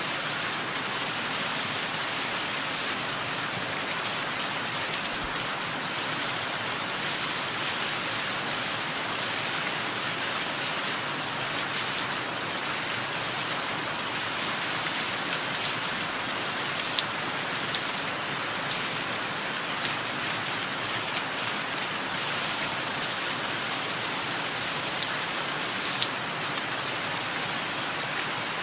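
Steady rain falling, with a bird giving short, high, down-sweeping chirps in twos or threes about every three seconds, louder than the rain.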